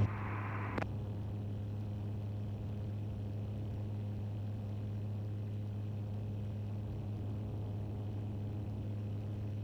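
Cabin sound of a Tecnam Sierra light-sport airplane in a climb: a steady engine and propeller drone with a low hum, and one brief click about a second in.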